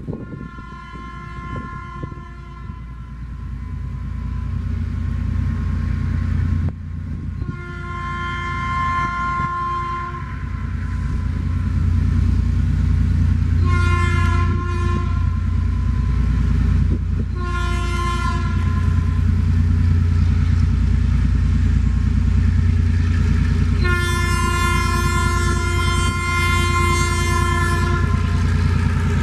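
ALCO RSD16 diesel locomotive sounding its air horn in five blasts: two longer, two short, then a long final one. Under the horn, the rumble of the diesel engine and train grows steadily louder as the train approaches.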